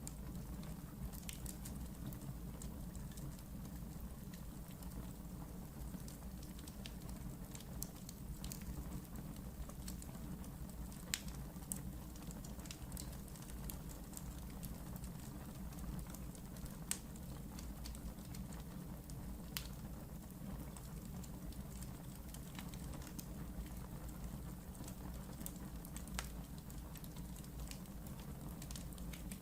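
Wood fire burning in a fireplace: a steady low rumble of flames with frequent small crackles and a few sharper pops now and then.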